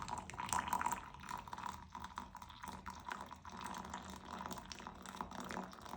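Faint water sounds and small irregular clicks from freshly boiled water in an open portable electric travel kettle being handled.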